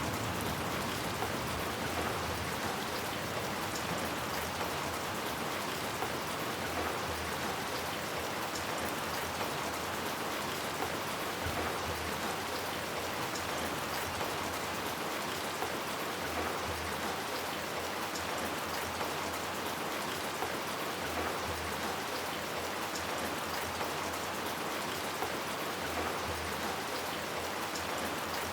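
Steady rain falling, an even hiss with scattered faint drip ticks. The low tail of a thunder rumble fades away at the very start.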